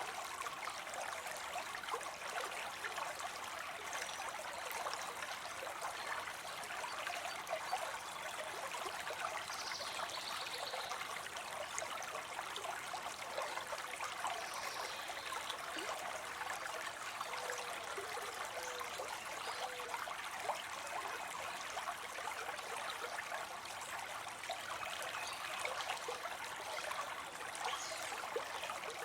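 Water spilling into a pond: a steady, unbroken splashing trickle.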